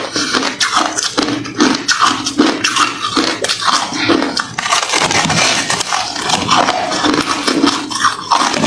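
Close-miked chewing of hard, refrozen crushed ice: a steady run of crunches as the ice is bitten and ground between the teeth.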